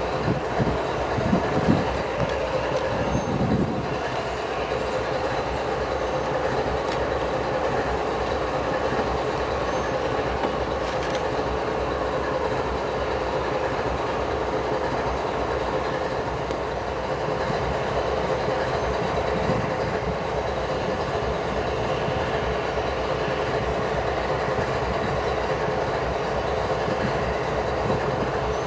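Freight train rolling past at steady speed, a continuous rumble of wheels on rail, with a few heavier low thumps in the first few seconds.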